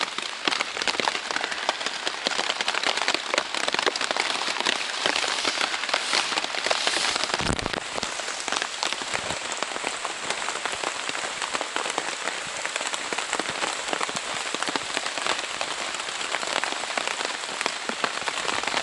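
Heavy rain falling on a Zpacks Plexamid tent's Dyneema fabric: a dense, steady hiss of countless drop impacts, with a heavier surge of rain about six to seven seconds in and a brief low thud just after.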